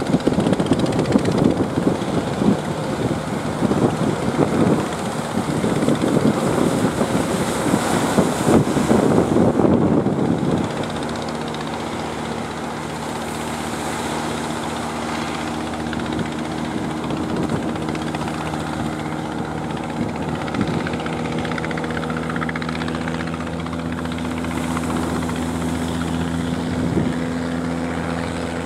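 A gusty rumbling noise for about the first ten seconds, then a steady engine drone that holds one pitch.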